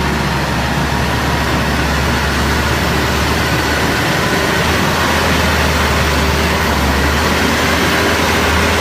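Heavy truck engine running steadily: a continuous low drone under a haze of mechanical and road noise.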